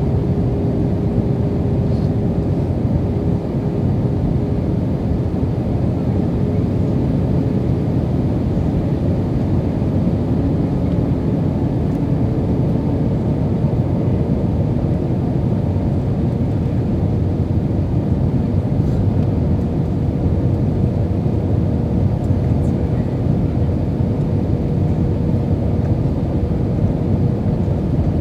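Steady cabin noise inside an Airbus A320 in flight: the IAE V2500 engines and the airflow make an even, loud rumble. A faint steady hum in it rises slightly in pitch about halfway through.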